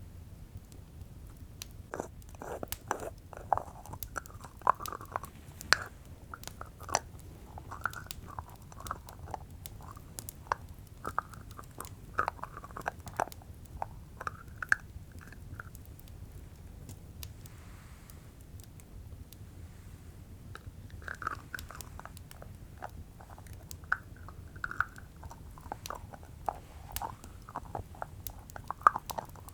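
A jar lid being handled close up: repeated gritty twisting and scraping with sharp clicks, in short clusters, with a pause of a few seconds midway.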